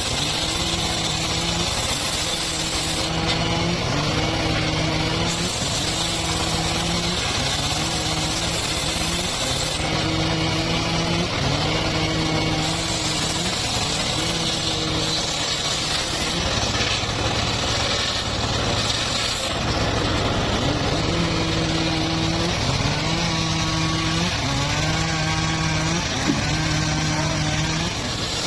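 Motor-driven sawmill running and sawing mahogany. Its pitched hum rises and then holds in a cycle that repeats about once every second or so, over steady machine noise.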